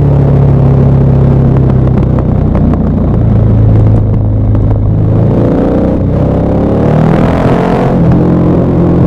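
KTM 1190 Adventure R's LC8 V-twin engine running on a downhill ride. The engine note drops lower about three seconds in, then rises sharply with the throttle opening near the end before settling at a steady pitch.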